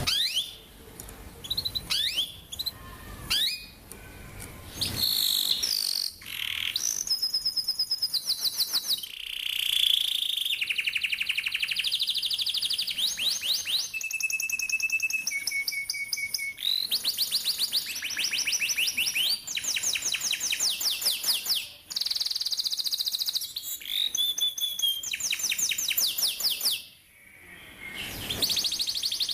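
Domestic canary singing long rolling trills: fast runs of rapidly repeated high notes, each phrase shifting pitch every second or two, with a few held whistled notes between. There is a short pause near the end before the trilling resumes.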